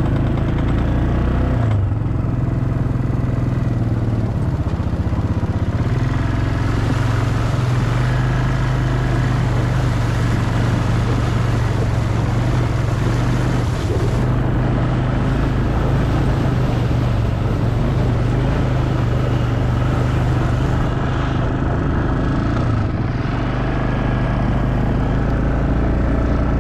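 Quad bike engine running steadily under way, with a wide noise of wind and tyres over it. It eases slightly a few seconds before the end.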